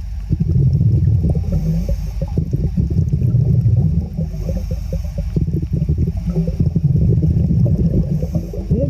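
Muffled water sloshing and gurgling, with many short irregular knocks and clunks.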